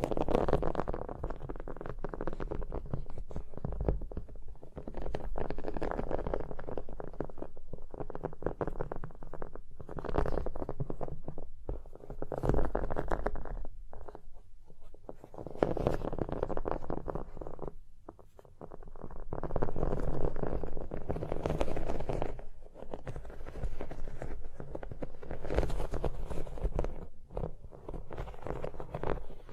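Close-miked ASMR tapping on objects: rapid, dense taps in runs of a few seconds, with short pauses in between.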